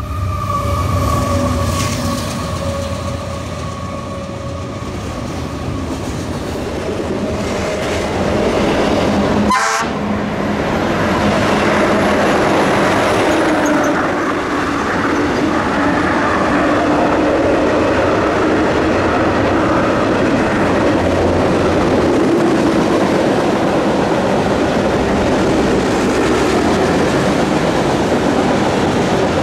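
Double-stack container freight train running past with a steady rumble and wheel clatter. A horn's held tones fade away over the first few seconds. The sound breaks off briefly about ten seconds in, then the train noise returns louder and stays steady.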